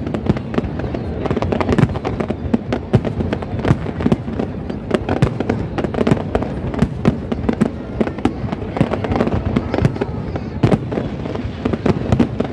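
Aerial fireworks display bursting in quick succession: a dense, unbroken run of sharp bangs and crackle, several reports a second over a continuous low rumble.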